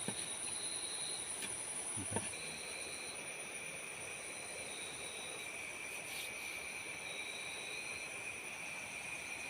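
Forest insects, crickets among them, trilling steadily at several pitches, some in short repeated phrases, over a steady background hiss. A single low knock comes about two seconds in.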